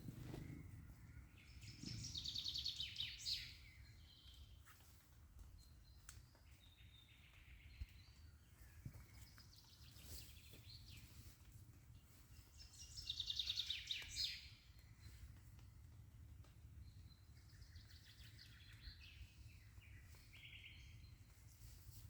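A songbird sings two phrases, each a fast run of repeated high notes lasting about a second and a half, the first about two seconds in and the second near the middle. Fainter single bird calls come between the phrases over a low steady rumble.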